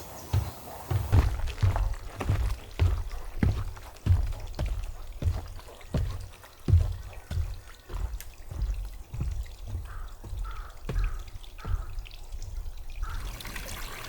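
A hiker's footsteps on a snowy mountain trail, walking at a steady pace of about two steps a second.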